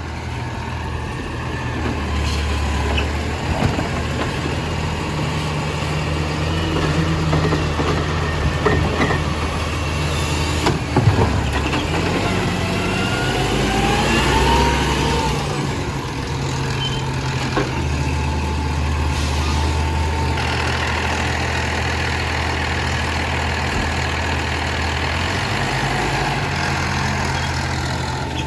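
Compost collection truck's diesel engine running, its pitch stepping up and down several times as the revs change, with a whine that rises and falls about halfway through.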